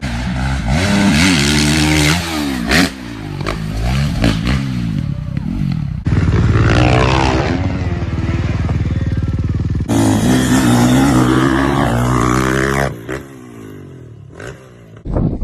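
Dirt bike engines revving, the pitch rising and falling again and again, with sudden changes in sound as one clip cuts to the next. The engine noise drops away for a moment near the end.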